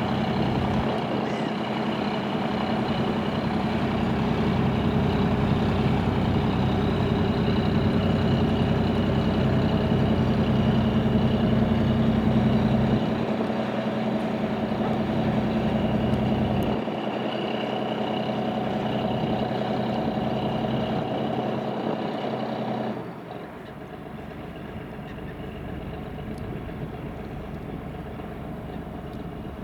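Diesel engine of a river buoy-tender motor vessel running steadily. About 23 seconds in the engine sound drops abruptly to a quieter, plainer noise.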